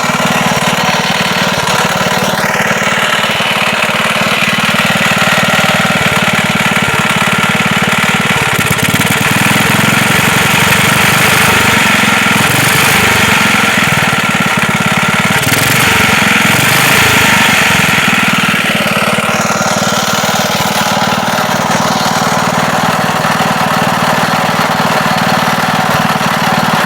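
Wisconsin air-cooled engine running loud with a knock, speeding up a couple of seconds in and slowing back down near the end. The knock is probably play in the connecting rod at the crankshaft: rod knock.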